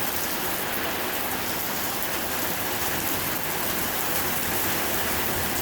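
Heavy rain pouring down, a steady, even hiss of rain on surfaces with no break.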